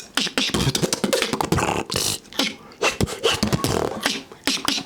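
Beatboxing: a fast, dense rhythm of sharp percussive mouth sounds and hisses, with a few low bass notes mixed in.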